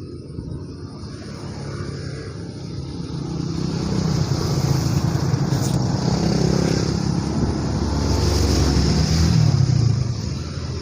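A motor vehicle's engine passing close by, getting steadily louder over several seconds and dropping away near the end.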